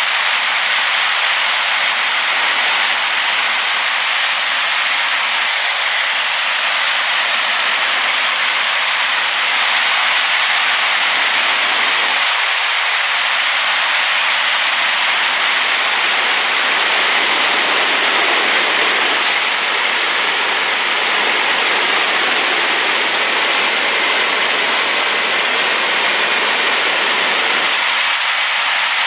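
Rain-swollen waterfall: a loud, steady rush of falling water, the river in spate and carrying sediment after rain.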